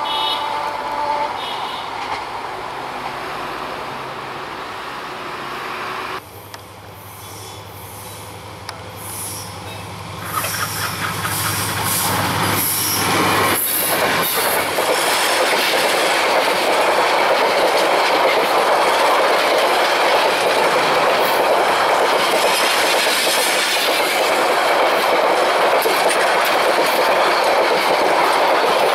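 A train rumbling away, then a Hyundai Rotem EMD diesel-electric locomotive approaching with a steady low engine hum and passing close by about halfway through. Its intercity passenger coaches follow, rolling past with loud, steady wheel-on-rail noise and clickety-clack over the rail joints.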